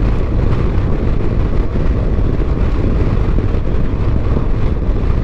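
Wind rushing and buffeting over the camera's microphone while riding a BMW R 1200 GS motorcycle at speed, with its flat-twin engine running underneath.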